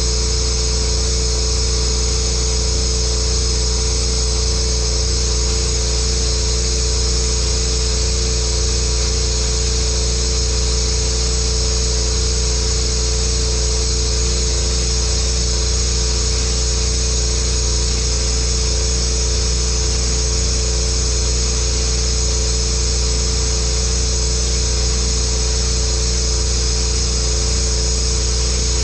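Pressure washer running steadily at a constant pitch, a low drone with several fixed tones above it, while it pumps water at full flow out of an open ball valve.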